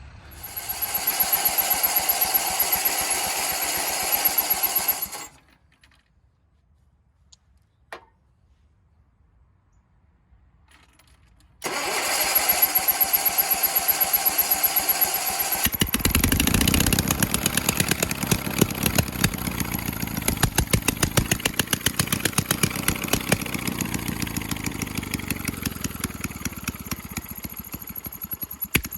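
Sears garden tractor engine being cranked by its starter: a steady cranking whine for about five seconds that fails to catch, a pause, then a second crank. About four seconds into the second try the engine catches and runs with a regular firing beat, slowly getting quieter toward the end.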